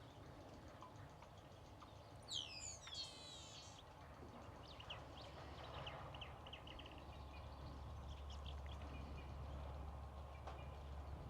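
Wild birds calling. About two seconds in comes one loud call of several quick downward-sweeping notes, followed by fainter scattered chirps and a short rapid series of chirps. Under them runs a low rumble that grows toward the end.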